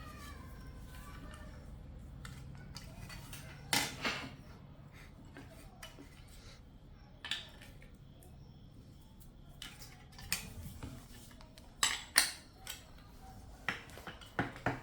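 Scattered sharp clinks and knocks of small hard objects being picked up and set down, about a dozen irregular ticks. The loudest ones are two-thirds of the way in.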